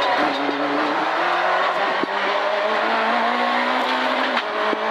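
Peugeot 205 F2000 rally car's four-cylinder engine heard from inside the cabin, revs climbing steadily for about four seconds and then dropping near the end. The throttle cable has snapped, so the throttle is being worked by hand from the cable.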